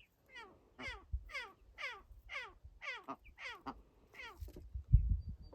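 An animal calling over and over, about eight calls at roughly two a second, each one falling steeply in pitch. A dull low thump comes near the end.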